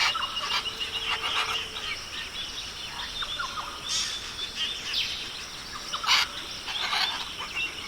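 Rainforest bird calls: scattered chirps and a few short harsh squawks over a steady high-pitched background drone.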